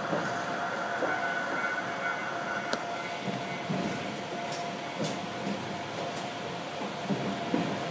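Iyotetsu 3000-series electric train (ex-Keio Inokashira 3000 series) running, heard from the cab: a steady running hum with a faint whine. The wheels knock irregularly over rail joints and points, with a few sharp clicks.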